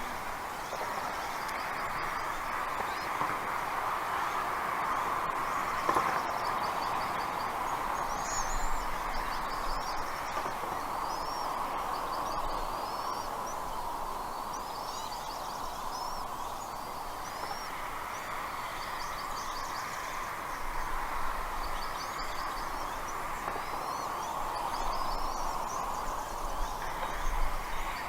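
Birds chirping, with short high sweeping calls and quick trills scattered through, over a steady rushing outdoor noise.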